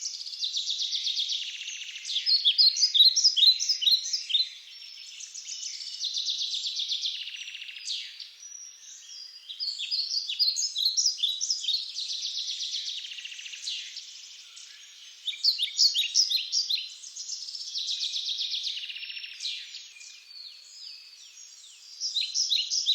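A songbird singing in repeated phrases every few seconds, each a buzzy trill followed by a quick run of high chirps.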